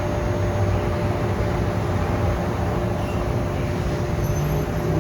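A vehicle engine running steadily: a continuous low rumble with a faint steady hum above it.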